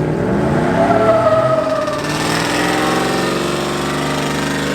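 An engine revving up, rising in pitch over the first second, then held steady at high revs.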